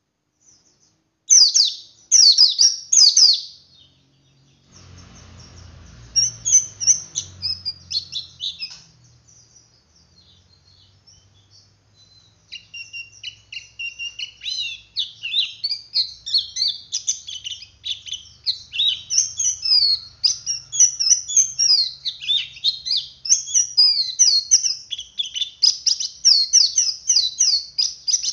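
Male pleci (white-eye) calling in a rapid, high-pitched twitter ('ngeriwik'). A loud burst of chirps comes early, a pause follows, and from about halfway the chirps run on in an unbroken string.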